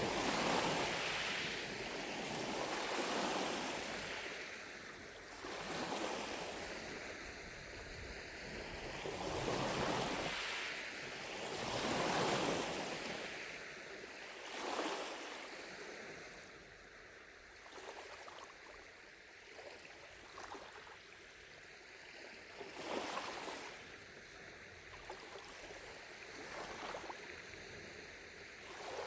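Small lake waves lapping at the shore, each wash swelling and fading every two to three seconds, settling about halfway through into quieter, lighter little splashes.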